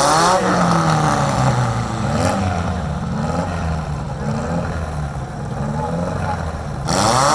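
Four-cylinder demolition derby car engines running, with rising and falling revs; a sharp rev surge at the start and another near the end.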